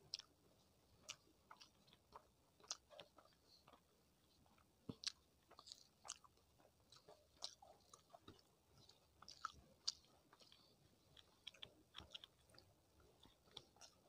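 Faint, close-miked eating sounds: a person chewing rice and curry, with irregular wet mouth clicks and smacks, and fingers squishing rice on a plate.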